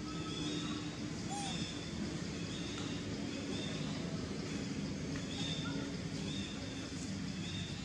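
Outdoor ambience: short high bird chirps repeat every second or so over a steady low hum.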